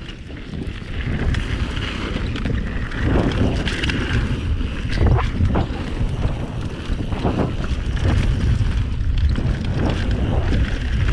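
Mountain bike riding fast down a dirt forest trail: a steady rumble of tyres on the ground and wind buffeting the helmet or chest camera's microphone, with a few knocks and rattles from the bike over bumps.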